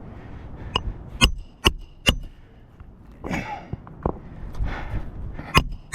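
Hammer driving roofing nails into a roof shingle: four sharp metallic blows in quick succession about a second in, each with a brief ring, and another blow near the end.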